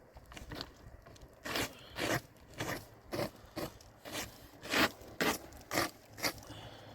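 Footsteps crunching through snow, about ten steps at roughly two a second.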